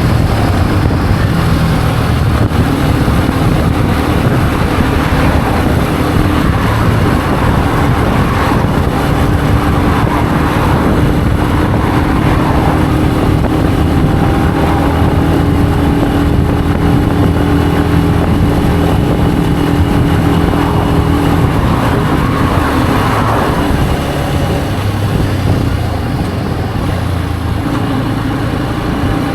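Benelli BN125's single-cylinder 125 cc engine running under way, its pitch shifting with throttle and gear changes, with wind rushing over the rider's microphone. It eases off briefly near the end.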